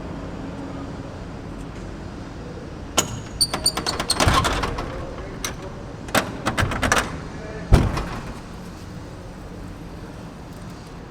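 A run of sharp clicks and knocks with a brief metallic jingle, then one heavy thump about eight seconds in, over a steady background hiss.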